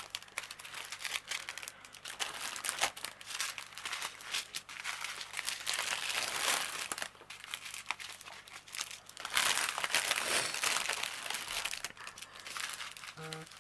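Small plastic bags of diamond-painting drills crinkling and rustling as they are handled and sorted through by hand, with many small clicks.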